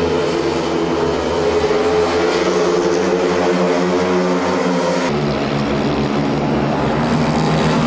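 Speedway motorcycles' single-cylinder engines running at steady high revs as they race round the track, a continuous droning engine note. About five seconds in, the engine tone shifts abruptly to a different pitch.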